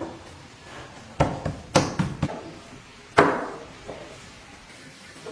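A series of sharp knocks, five close together followed by a single louder one with a short ringing tail.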